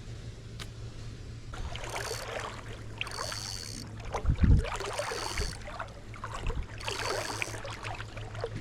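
A person wading through a shallow creek, legs sloshing and splashing through the water in uneven bursts, with one heavier thump about four and a half seconds in. A steady low hum runs underneath.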